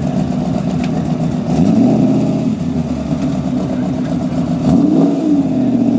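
Car engine running steadily near idle, revved up and let back down twice: once about two seconds in and again near the end.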